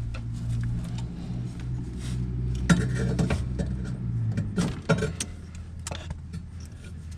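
A vehicle engine idling with a steady low hum that cuts off about four seconds in, followed by several sharp clicks and knocks.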